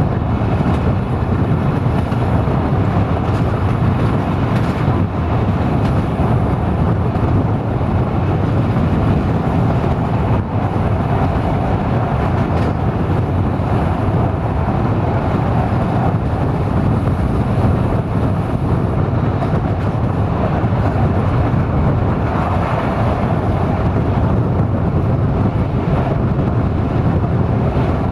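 Steady running noise of an ADH11 diesel-hydraulic railcar under way, heard from on board: engine drone and wheel-on-rail rumble.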